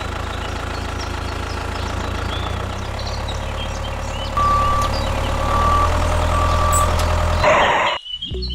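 Tractor engine running steadily, getting louder about halfway through. Three evenly spaced beeps like a reversing alarm sound over it, with faint bird chirps, and it all cuts off abruptly near the end.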